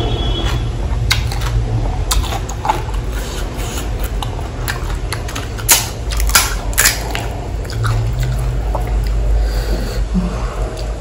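Close-miked chewing of pani puri: crisp puri shells crunching and wet squishing, with a cluster of loud sharp crackles about six to seven seconds in, over a steady low rumble.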